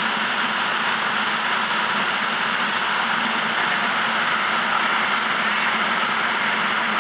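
Flash-flood water pouring down a canyon's rappel drop in a steady, unbroken rush.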